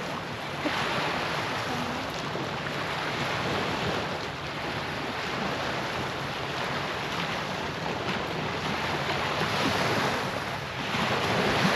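Rushing sea surf mixed with wind noise on the microphone, swelling and easing every few seconds.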